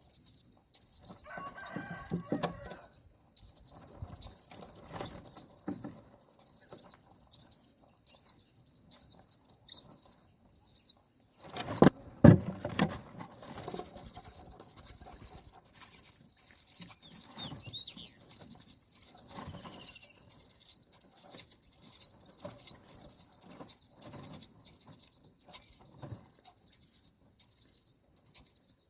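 Common myna nestlings begging: rapid high-pitched chirping, several chirps a second without a break, growing louder about halfway through. A sharp thump with rustling comes just before the chirping swells.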